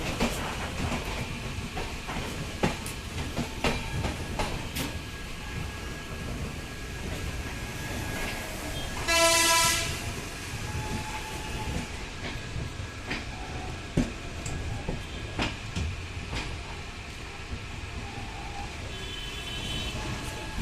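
Indian Railways train rolling along the track: a steady low rumble with scattered clacks of the wheels over rail joints. About nine seconds in, a train horn sounds one short blast of about a second.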